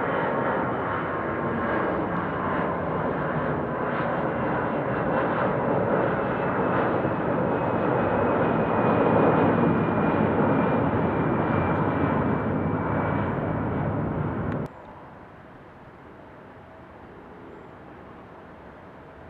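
Jet airliner departing under engine power: a loud, steady jet noise with a faint whine that slowly falls in pitch. The noise cuts off suddenly about fifteen seconds in, leaving a quiet hiss.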